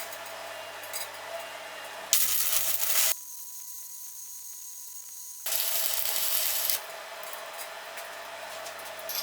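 Stick (arc) welding with a rutile electrode: the arc crackles and hisses over the steady hum of the welding machine. It burns for about three seconds, stops, and is struck again about two and a half seconds later.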